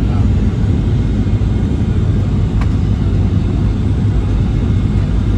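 Boeing 737-800's CFM56 jet engines giving a steady low rumble.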